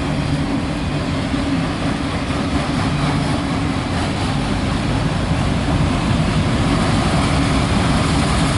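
CSX local freight train rolling past: a continuous loud noise of wheels on rail, with a low steady hum underneath.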